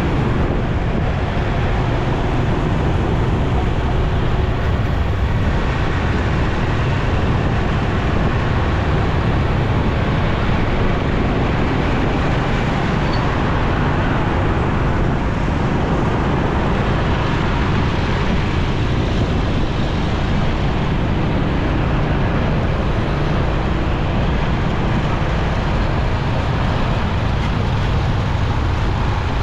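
Steady rush of wind and road noise from a motorcycle riding through city traffic, the bike's engine and surrounding vehicles blended in at an even level.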